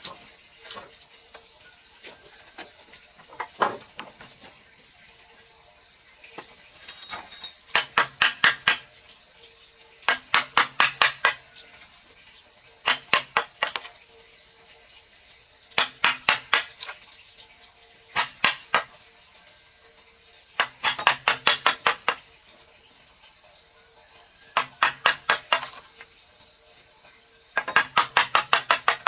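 Bursts of quick, sharp strikes on wood during hand woodworking, six to eight fast knocks at a time, repeating every two to three seconds.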